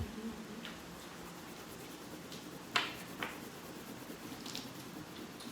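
Soft scratching of a colouring tool on paper, with two sharp clicks about three seconds in, half a second apart.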